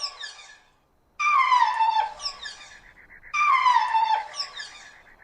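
An animal calling: loud calls about a second long that start high and fall in pitch. The tail of one call comes at the start, then two full calls about two seconds apart.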